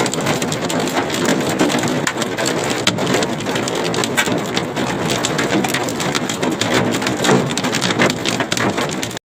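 Hailstones pelting down in a heavy hailstorm: a dense clatter of countless small impacts over a steady rushing roar, cutting off suddenly near the end.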